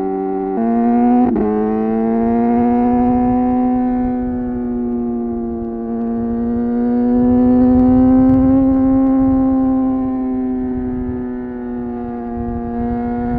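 Suzuki GSX-R 750's inline-four engine running at steady revs while riding. Its pitch steps up about half a second in and dips for an instant just after, then holds nearly steady with slow, slight rises and falls, over a low rumble of wind and road noise.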